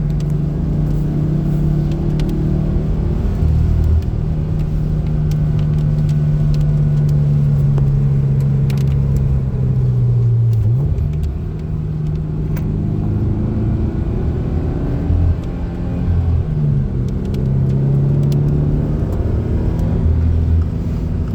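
Car engine heard from inside the cabin, running steadily under load on a winding drive. Its pitch sags and comes back up twice, about ten seconds in and again about sixteen seconds in, as the throttle is eased and reapplied.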